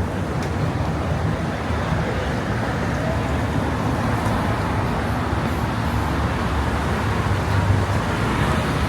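Steady city street traffic: the running engines and road noise of passing motor vehicles, with a low hum throughout.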